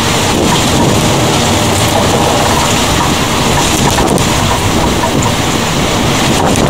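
Heavy rain falling steadily in a thunderstorm.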